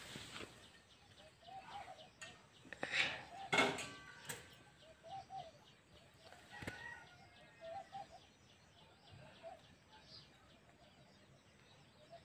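Birds calling in the background: short calls repeating roughly once a second, with a few louder, noisier bursts about three seconds in.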